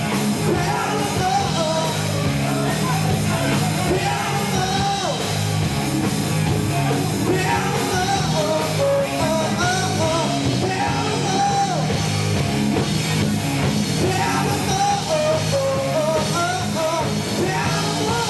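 Live rock band playing loudly, with a melodic lead line over the band. The recording is harsh and poor in quality.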